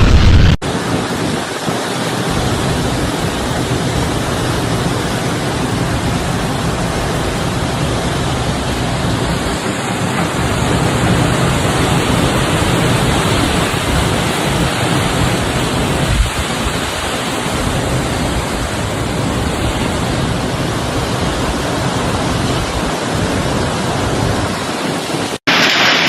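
Steady rush of a heavy storm, with wind and driving rain. There is one short knock about 16 seconds in.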